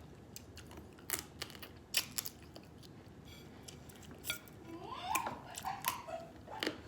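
Blue crab shells being cracked and picked apart by hand, scattered sharp cracks and clicks, with chewing between them.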